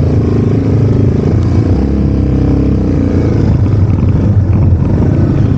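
Yamaha TW200's single-cylinder four-stroke engine running loudly under load as the bike is ridden through deep mud.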